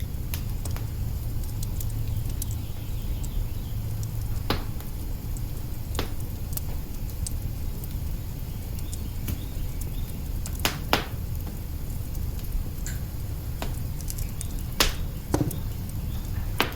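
Wood fire crackling in an open hearth: a steady low rumble with scattered sharp pops and snaps of burning logs, a few louder ones near the middle and toward the end.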